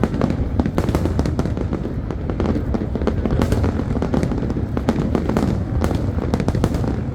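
Large fireworks display: a rapid, continuous series of bangs and crackles from aerial shells bursting, with a steady low rumble of booms underneath.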